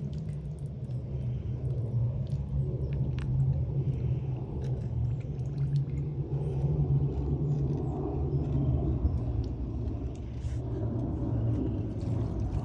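A steady low rumble with scattered small clicks and knocks.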